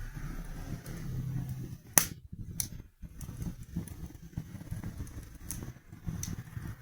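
Wood fire in a fireplace crackling: a steady low rumble of the flames with scattered sharp pops, the loudest about two seconds in.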